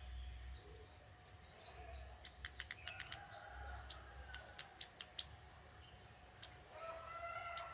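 Young male ciblek tebu, a prinia, calling: faint high chirps, then a run of sharp, quick ticking notes, and a louder warbling phrase starting near the end.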